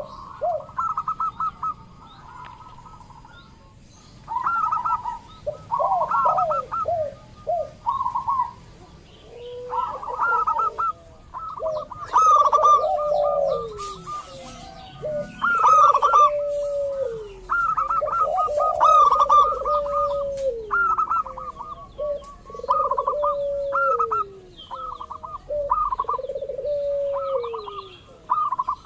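Zebra doves cooing in repeated phrases, several overlapping: quick runs of short notes, with lower coos that slide down in pitch at the end.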